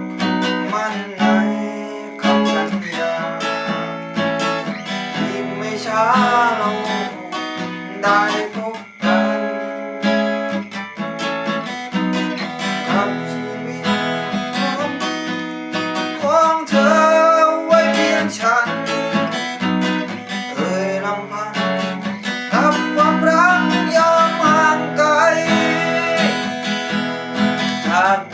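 Instrumental break of a song led by acoustic guitar, strummed and picked, with a gliding lead melody over it.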